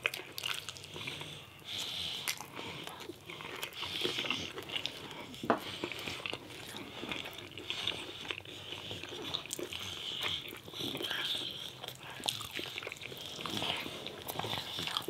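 Person eating, biting and chewing food, with many short crunchy clicks throughout.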